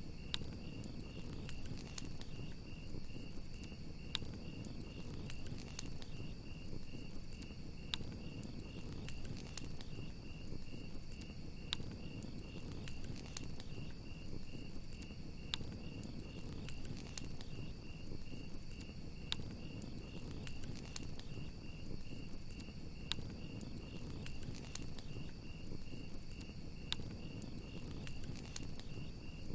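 Crickets chirping in a steady, fast-pulsing trill over a crackling campfire, whose sharp pops come every second or so above the low rumble of the flames.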